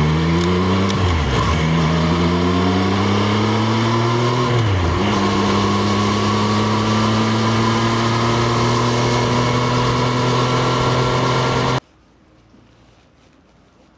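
Triumph Street Triple RS inline-three engine accelerating, with two upshifts about one and five seconds in where the pitch drops briefly, then running at nearly steady revs. The sound cuts off suddenly near the end.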